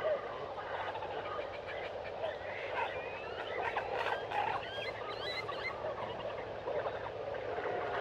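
Rainforest animal chorus: many overlapping frog and bird calls at once, with a cluster of quick chirps and short gliding whistles about midway.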